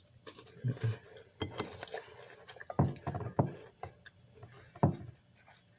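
Eating noises at a table: a scatter of short, light clicks and knocks from dishes and utensils, about half a dozen spread over a few seconds.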